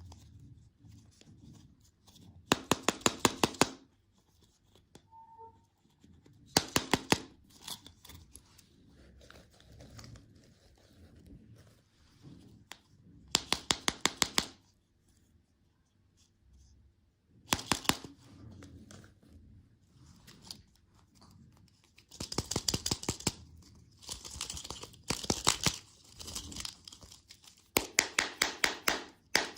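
Packaging being handled: about seven short bursts of rapid crackling, each about a second long, with faint rustling between them.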